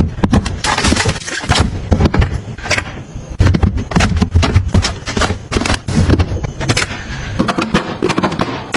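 Containers and packaging being handled and set down while restocking: a quick run of clacks, taps and knocks, with a stretch of crinkling or rustling about a second in.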